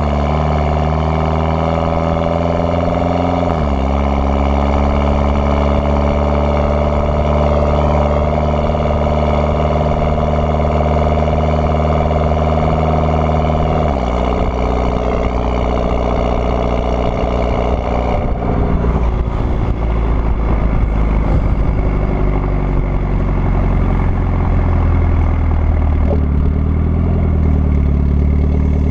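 Mitsubishi Lancer Evolution X's turbocharged 2.0-litre four-cylinder running through an AMS widemouth downpipe, AMS cat and AMS cat-back twin-tip exhaust. The engine note climbs slowly and drops sharply twice, about three and a half seconds in and again around fourteen seconds. From about eighteen seconds it turns rougher and noisier.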